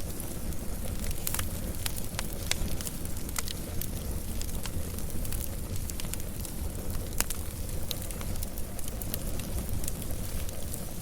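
Wood fire burning with a steady low rumble and frequent sharp crackles and pops at irregular intervals, one of the loudest pops about seven seconds in.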